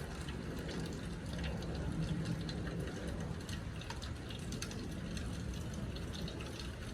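Steady wet-weather street ambience in a snowstorm: a low city rumble under a watery hiss, with many small ticks and drips throughout.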